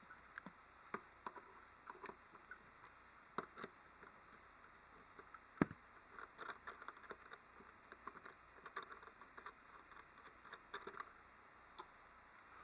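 Scattered faint clicks and taps of hands handling wiring and parts in a car, with one sharper knock about five and a half seconds in.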